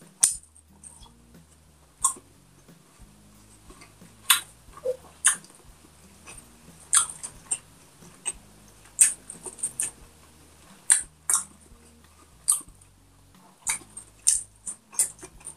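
Close-up chewing of a mouthful of fried pork binagoongan and rice: sharp wet mouth smacks and crunches at irregular intervals, from one to several a second.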